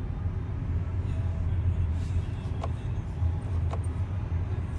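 Road and tyre noise of a Tesla driving in traffic: a steady low rumble, with two faint ticks about a second apart near the middle.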